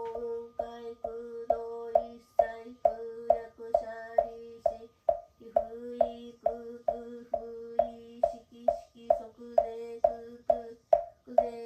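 A woman chanting a Buddhist sutra in a steady monotone, with breaths about five seconds in and near the end. A mokugyo wooden fish is struck evenly about twice a second to keep the beat.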